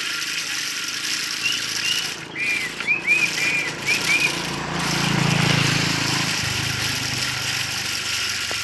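A quick run of short, high chirping notes, like a small bird, over a steady hiss, followed about five seconds in by a low rumble that swells and fades.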